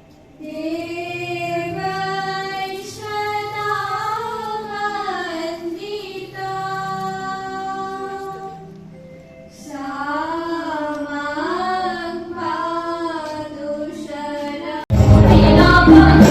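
A single high voice sings a slow, ornamented melody over soft sustained keyboard-like chords, with a pause in the middle. About fifteen seconds in, much louder, fuller music with a choir cuts in suddenly.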